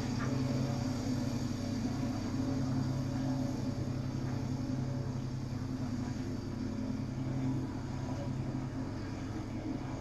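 Steady engine drone, an even low hum that holds without change.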